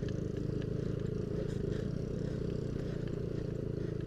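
Yamaha Aerox scooter's engine running steadily while riding a rough, dusty dirt trail, with scattered small clicks and rattles throughout.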